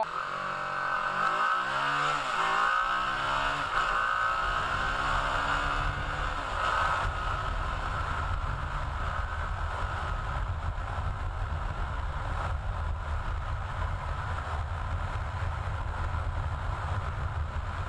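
TVS Apache RR 310's single-cylinder engine rising and falling in pitch through the first few seconds, then running steadily at speed under heavy wind noise on the microphone.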